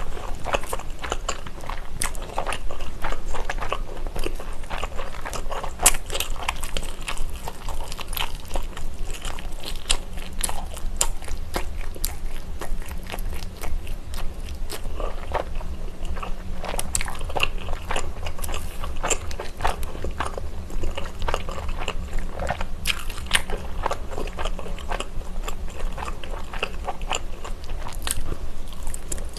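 Close-miked chewing and biting of a sotteok-sotteok skewer (chewy rice cakes and sausages glazed in sauce): sticky, wet mouth clicks and small crunches, irregular and continuous.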